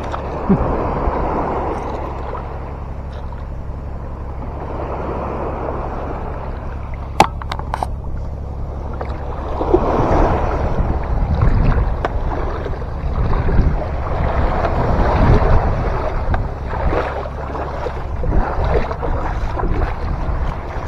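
Small boat on the water: a steady low hum with water rushing and splashing, louder in the second half, plus wind on the microphone and a few sharp knocks about seven seconds in.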